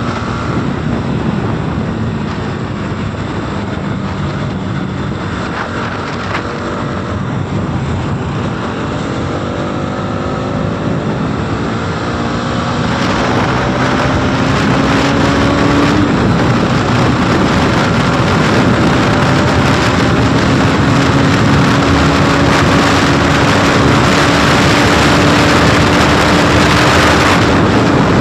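Motorcycle engine pulling hard under full throttle, its note rising steadily and dropping back once at a gear change before climbing again. Wind rush on the microphone grows louder as the bike gathers speed.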